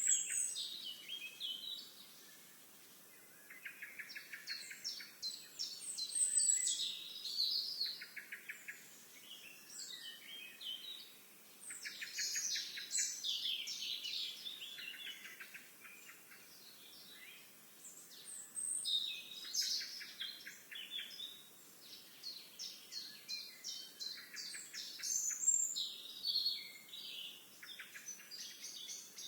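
Songbirds singing along a river trail: song phrases of rapid trilled notes mixed with higher chirps, repeated every few seconds over faint outdoor background noise.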